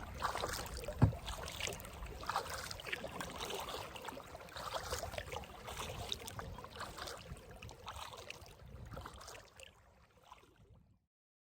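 Kayak paddling on a river: the paddle dips and splashes, with water dripping, and one sharp knock about a second in. The sound fades out near the end.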